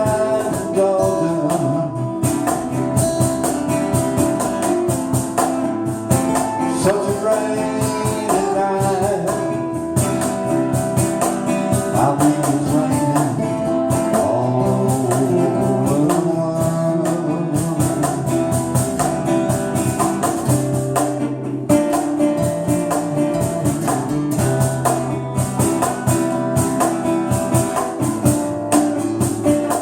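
A band playing a song, with guitars and a melody line over a steady beat.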